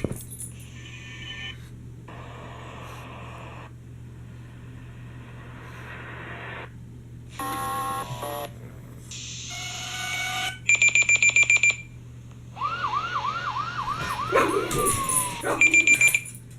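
Sound effects played through a phone's speaker: a string of short clips with stretches of hiss, beeping alarm tones around the middle, and a fast repeating siren whoop about thirteen seconds in.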